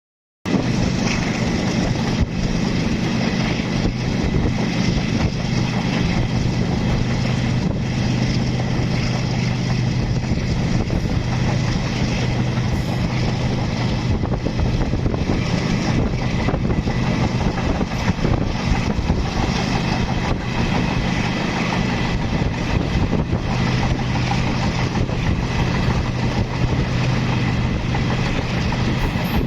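Diesel passenger train running steadily: a constant low engine drone over a continuous rumbling noise.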